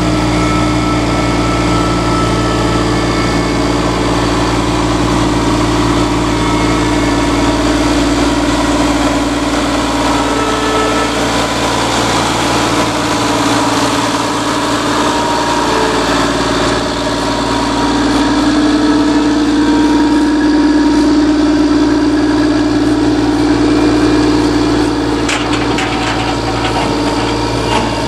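CAT tracked trail groomer's engine running steadily, getting a little louder about two-thirds of the way through, with a few short clanks near the end.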